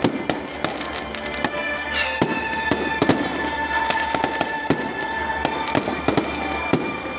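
A rapid, irregular run of sharp pops and cracks, with music playing underneath.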